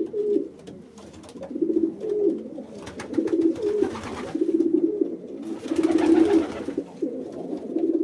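Flock contact calls, the calls that keep a flock of birds together: short, low trilled notes repeated over and over, some overlapping.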